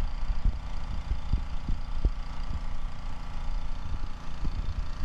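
Pressure washer running steadily, with scattered short knocks and taps over it.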